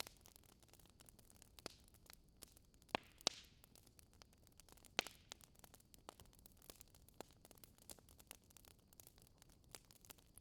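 Wood fire in a fireplace crackling softly over a faint hiss, with a few sharper pops, two close together about three seconds in and another about five seconds in.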